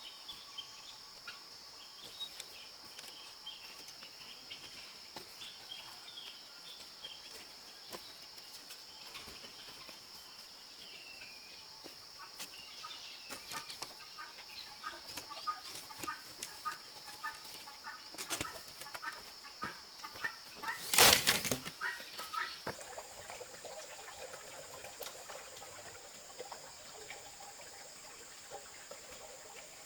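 Chickens clucking, with a loud burst of wing flapping about two-thirds of the way in, over a steady high-pitched drone.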